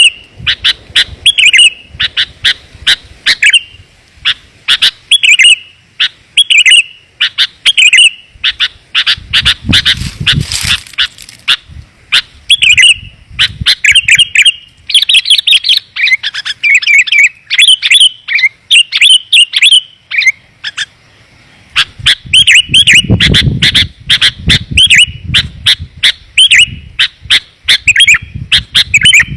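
Sooty-headed bulbuls (kutilang) calling in rapid, loud, dense runs of short chirping notes, used as a lure call. A low rumbling noise comes in twice, about a third of the way through and again past the middle.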